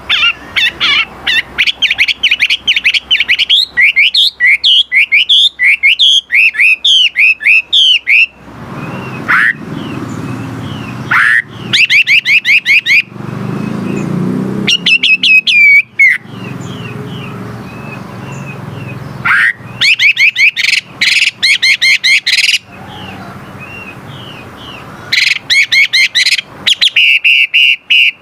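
Wambi songbird singing: loud, fast bursts of chattering trills, sharp clicks and sweeping whistled notes, repeated in phrases with short pauses between them. A low rumble sits underneath through the middle stretch.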